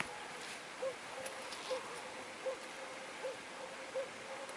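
A bird gives a short hooting note over and over, about one every 0.8 seconds.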